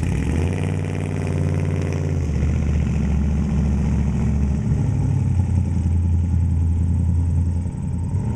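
1969 Chevrolet Camaro's small-block V8 (a 350 bored and stroked to 389 cubic inches) running. Its pitch rises over the first couple of seconds as it picks up revs, then it settles into a steady low burble.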